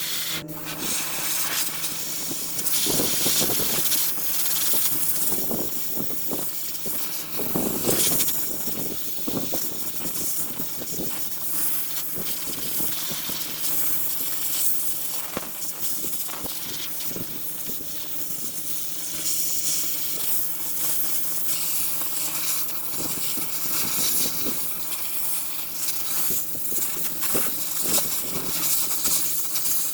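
Power tool cleaning rust and scale off steel truck frame metal: a steady high hiss over a constant motor hum, with irregular harsher strokes as the tool bears on the metal.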